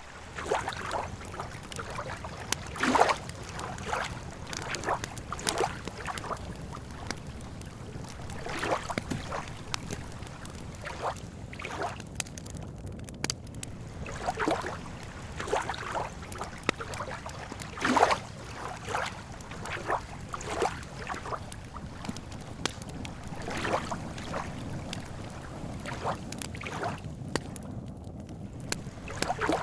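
Lake water lapping and sloshing against the shore in small irregular splashes over a steady low rumble, with a few sharp crackles from a campfire.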